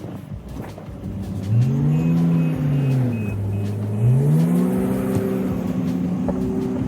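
Bulldozer engine revving up, dropping back to a lower speed, then revving up again and holding there.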